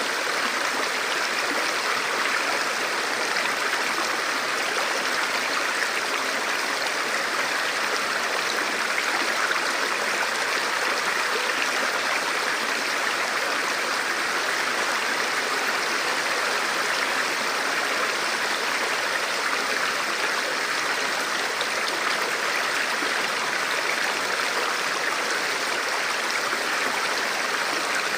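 Forest river flowing steadily over rocks: an even, unbroken rush of water with no changes.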